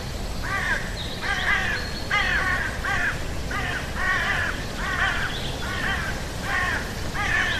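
A bird calling over and over, short arched calls about two a second, over a steady low background rumble.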